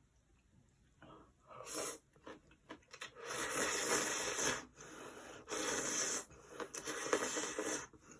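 Curry ramyeon noodles being slurped: a few long, hissy slurps, each about a second long, starting about a second in.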